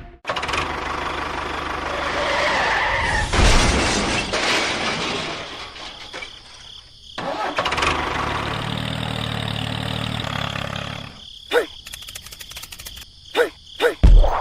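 An engine running, with sudden cut-ins and cut-offs, then a run of separate knocks in the last few seconds.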